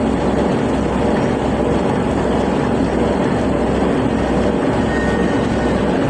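A motor ship's engine running with a steady low drone under a constant wash of noise.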